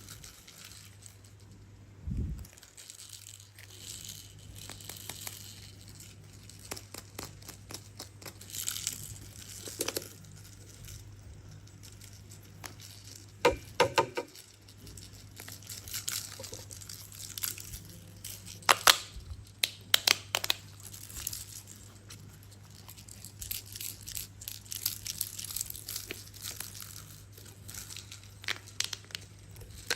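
Hands handling toys and packaging, giving scattered clicks, light knocks and rustling, with a few louder clicks near the middle, over a faint steady low hum.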